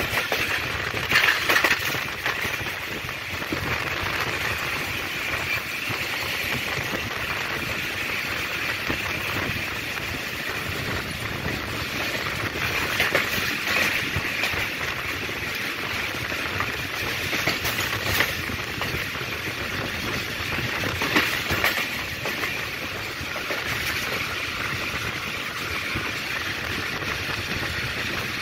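Pakistan Railways passenger train running along the track: a steady rolling rumble and rattle, with a few sharper clacks of the wheels over the rails.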